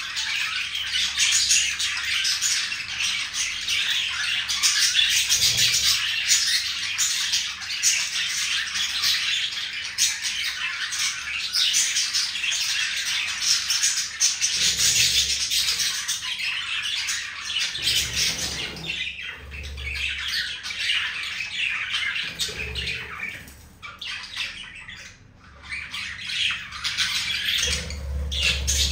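Pet budgie chattering and warbling, a dense, continuous run of quick high chirps and squawks that eases off briefly about two-thirds of the way through.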